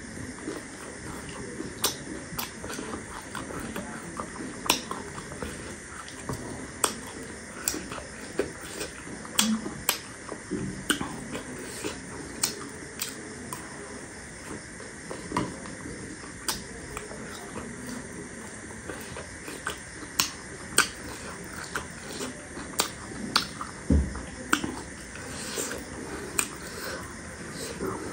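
Close-miked chewing of crunchy chatpate, a spicy puffed-rice snack mix, with sharp irregular crunches and crackles every second or so.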